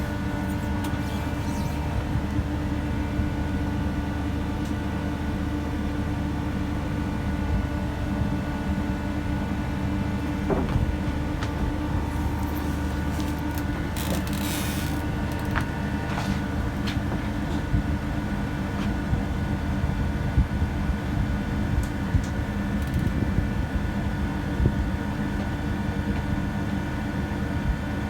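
Steady drone of a ship's running machinery, a constant hum with several fixed low tones. A few light clicks and a short hiss come about halfway through.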